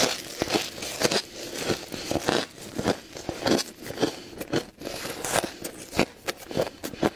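Close-miked crunching of ice being chewed, in quick, irregular crunches a few times a second.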